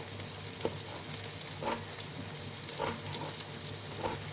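Garden egg stew frying in its pot with a steady, fairly quiet sizzle, and four or five light knocks spaced about a second apart.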